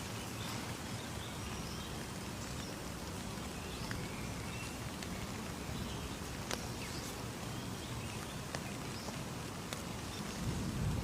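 Steady rain falling, with a few sharp drips.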